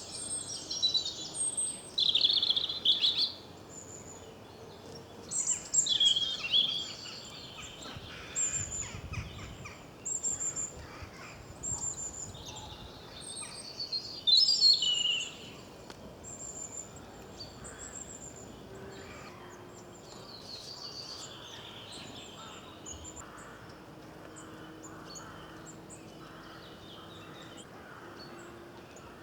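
Wild songbirds singing and calling in short, high-pitched phrases, loudest in the first half, then fainter scattered chirps over a steady outdoor background hiss.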